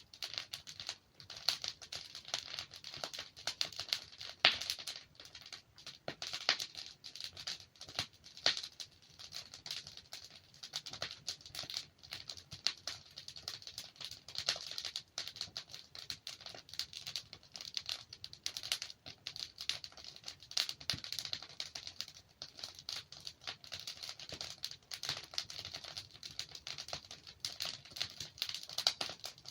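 Wood fire burning in a fireplace: a dense, irregular crackling with sharper pops scattered throughout, some louder than the rest.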